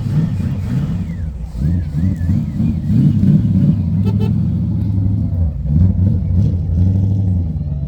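A car engine revving and running under load, its pitch rising and falling several times.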